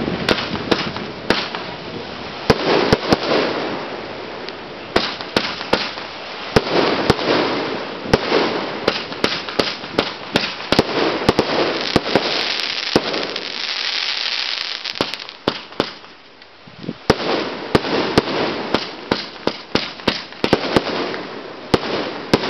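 Aerial fireworks going off in quick succession, with dozens of sharp bangs over a continuous hiss and crackle. There is a short lull about two-thirds through before the bangs pick up again.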